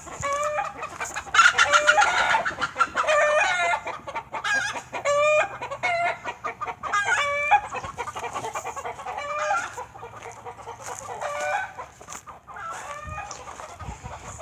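A flock of chickens clucking and squawking, many short calls in quick succession, busiest and loudest in the first half.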